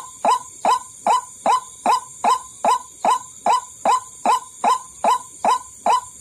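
White-breasted waterhen (ruak-ruak) lure call: a short, hoarse note repeated evenly about two and a half times a second, over a steady high hiss.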